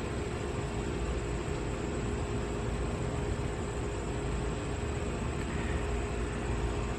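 Steady background noise with no speech: an even hiss and low rumble with a faint steady hum.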